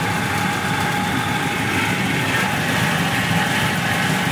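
Miniature amusement-park train running, heard from an open passenger car: a steady engine drone with no pauses or changes.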